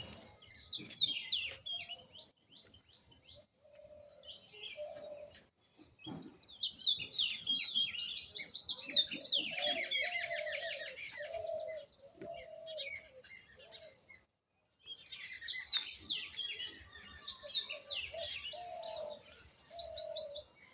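Several birds chirping and singing, with fast trilled phrases about seven seconds in and again near the end, over a run of short, low repeated notes. The calls break off briefly about fourteen seconds in.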